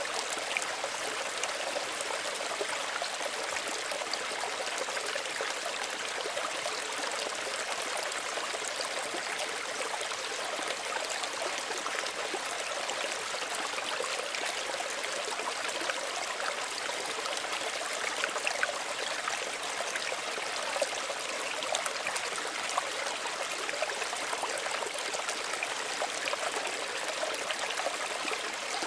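Small stream running steadily, water trickling and splashing over stones in a continuous hiss with small splashes throughout.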